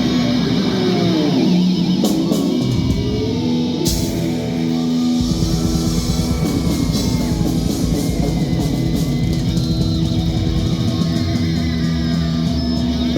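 Live rock band playing: electric guitar with bent, sliding notes over the band, with bass and drums filling in fully about five seconds in.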